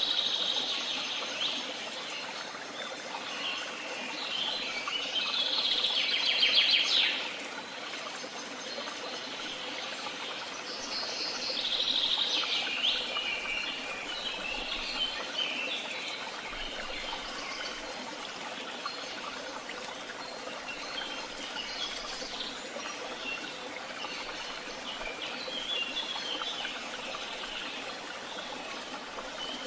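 Several woodland songbirds singing in overlapping phrases, with the loudest a fast, rapid trill about six to seven seconds in and another run of song around twelve seconds, over a steady background hiss.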